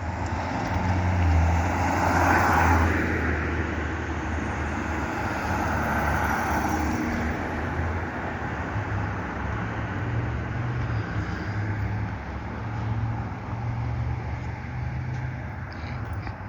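A car's engine and road noise running steadily, louder about two to three seconds in.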